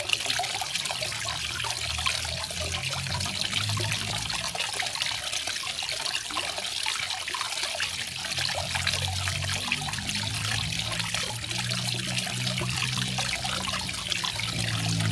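Garden waterfall: water trickling and splashing steadily, with a deeper, low burble that comes and goes.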